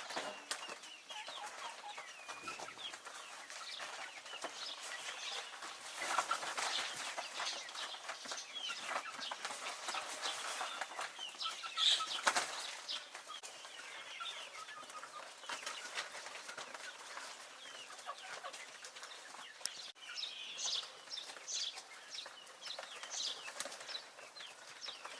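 Young chickens peeping and clucking, with many short clicks and scuffles as they peck and scratch at wheat feed; the sound is busiest around a quarter and a half of the way through.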